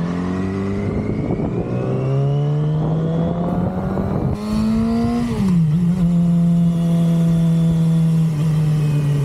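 2006 Yamaha R6's 600 cc inline-four with its stock exhaust, pulling steadily up in pitch under acceleration for about five seconds, then dropping sharply at an upshift and holding a steady cruising note. Wind rushes over the microphone throughout.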